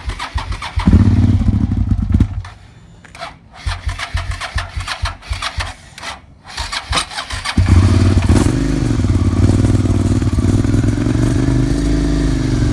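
Suzuki SV650S V-twin with a full Yoshimura exhaust being started. The electric starter cranks in several tries, and the engine fires only briefly at first. About eight seconds in it catches and settles into a steady idle.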